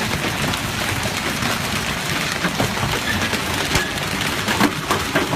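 Rain falling steadily: a dense, even hiss with scattered sharper drop hits.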